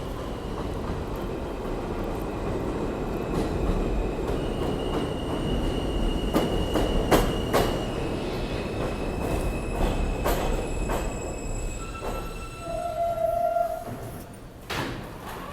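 New York subway train running through an elevated station: steady wheel-on-rail rumble with sharp clacks over rail joints and drawn-out high wheel squeals. The rumble swells toward the middle and drops off near the end.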